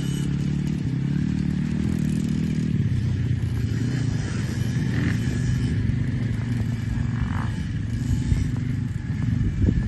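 Engines of kids' KTM motocross bikes running on the track, a clear engine note in the first three seconds giving way to a rougher, lower rumble.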